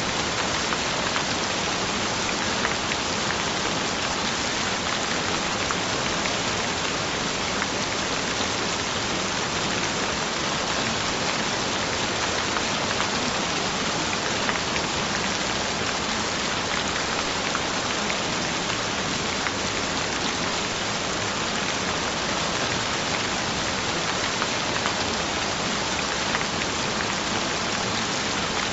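Steady gentle rain falling: an even hiss, dotted with faint ticks of individual drops, that neither builds nor fades.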